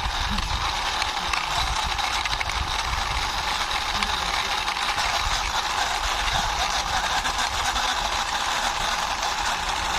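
Toy police car pushed by hand across a surface, its wheels rolling with a steady whirring noise.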